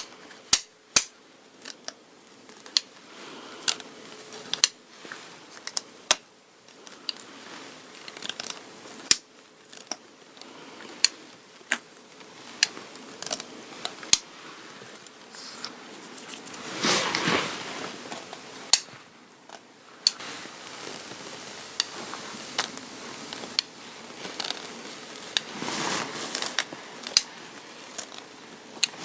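Lint roller rolled over fabric, its sticky sheet crackling and peeling in many sharp, irregular clicks, with two longer stretches of rustling about a third and nine-tenths of the way through.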